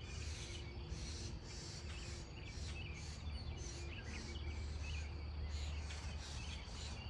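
Outdoor ambience: insects chirring in a repeated pulsing rhythm, with small bird chirps and a steady low hum underneath.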